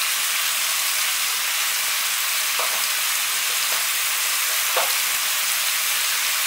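Diced pumpkin and tomato sizzling in hot oil in a pan: a steady hiss, with two faint ticks in the middle.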